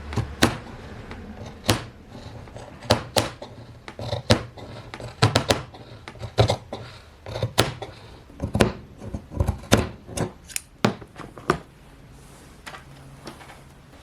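Scissors snipping in an irregular series of sharp clicks, a little over a dozen, then dying away about two seconds before the end.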